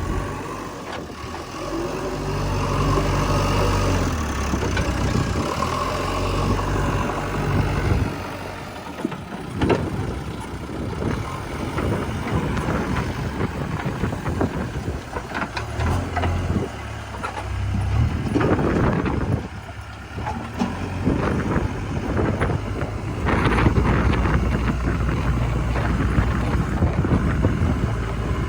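Diesel engine of a JCB 3DX backhoe loader running and rising and falling with the work of digging and loading mud, with repeated knocks and clatter.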